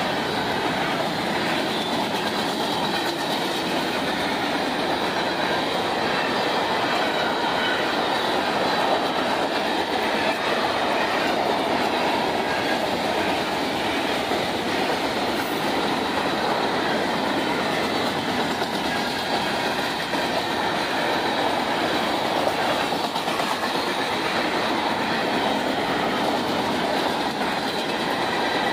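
Railroad cars rolling by on the track: steady noise of steel wheels on the rails, without a break.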